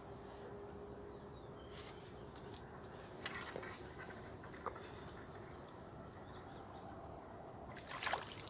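Quiet waterside ambience: a faint steady hum with a few short clicks and chirps, and a brief louder rustle near the end.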